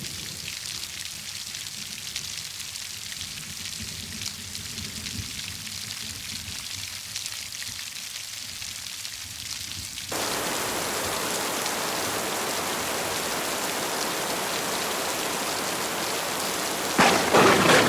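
Heavy rain falling in a steady hiss of drops. About ten seconds in it abruptly becomes louder and fuller, and near the end a roll of thunder begins.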